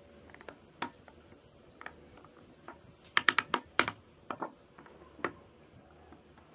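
Light, sharp clicks and taps of hand work on small wooden parts, irregularly spaced, with a quick run of about six near the middle.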